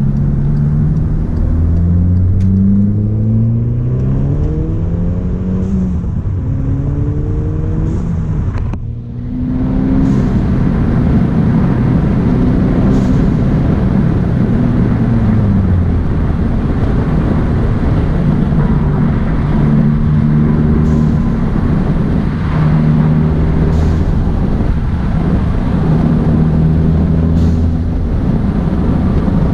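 VW GTI's 2.0 TSI turbocharged four-cylinder heard from inside the cabin. The engine note climbs in pitch as the car accelerates over the first eight seconds or so, dips briefly about nine seconds in, then holds steady at cruise with road noise.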